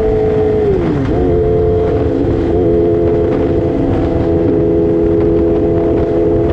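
Yamaha R6 sport bike's engine running at steady high revs; about a second in its pitch drops and then settles again at a steady pitch, with wind rumble underneath.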